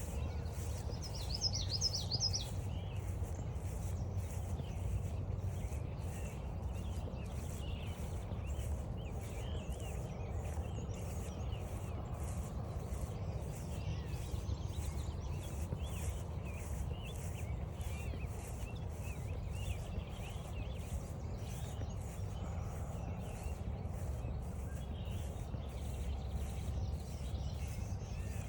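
Wild birds singing and calling on a forest trail, with a quick, high fluttering song about a second in and scattered calls after it. Under them are footsteps at a steady walking pace and a low rumble.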